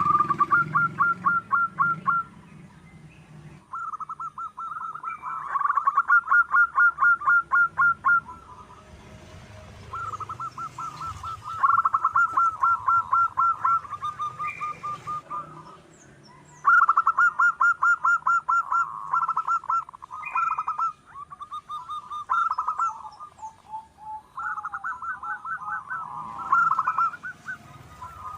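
Zebra dove (perkutut) singing: repeated bouts of rapid staccato cooing notes, each bout lasting a few seconds with short pauses between.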